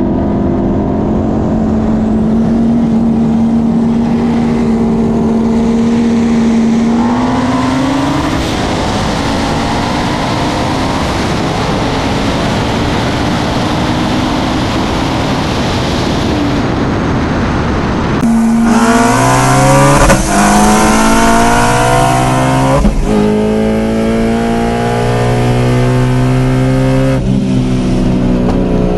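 High-performance cars accelerating flat out side by side from about 50 to over 140 mph: a steady engine note climbs, then a loud rush of wind and engine noise at top speed. About 18 s in the sound switches to inside a manual-transmission car, its engine revving up and dropping at three quick upshifts.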